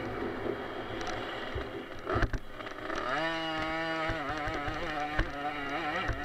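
Small two-stroke motocross bike engine revving hard, its pitch wavering, then rising about three seconds in and holding steady at high revs before wavering again. Sharp thumps come about two seconds in and again just after five seconds.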